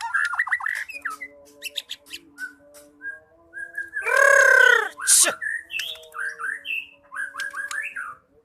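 White-rumped shama (murai batu) singing a fast, varied run of whistled and chattering notes, with a loud, harsh, drawn-out note about four seconds in that lasts about a second.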